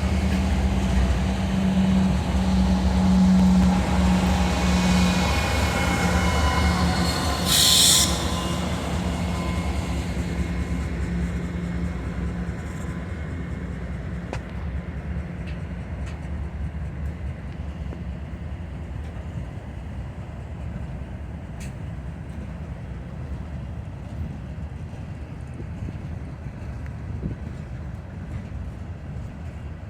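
Freight train passing: the diesel locomotives' engines hum loudly at first, then fade to a steady rolling rumble of freight-car wheels on the rails. A brief high-pitched wheel squeal comes about eight seconds in.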